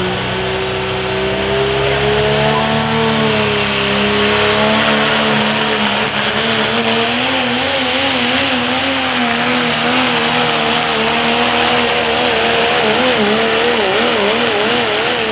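Pro stock turbo-diesel pickup truck's engine running hard under load on a truck pull, with a loud hiss over it. The engine's pitch climbs slowly, then wobbles rapidly up and down from about halfway through.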